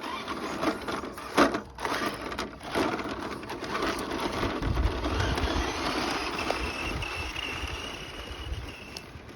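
Small vehicle's wheels rolling and crunching over rough pavement. A thin high whine joins in the second half.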